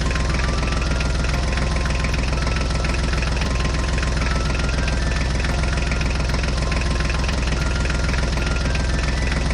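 Tractor engine running at a steady, even pace, a low chugging hum that cuts off suddenly at the end.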